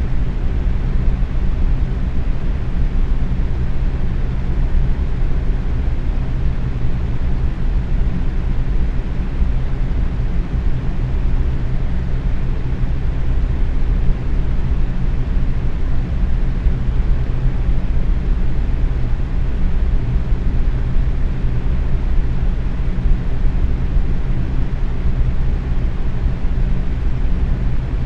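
Box fan running steadily at medium speed: a constant low whooshing hum of moving air with a faint motor drone underneath.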